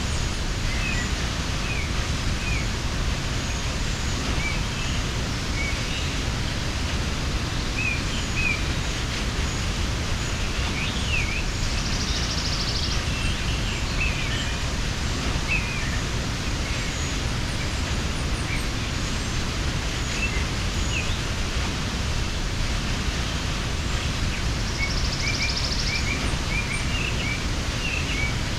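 Steady rushing of a mountain waterfall, with small birds chirping on and off over it and a brief high buzz twice.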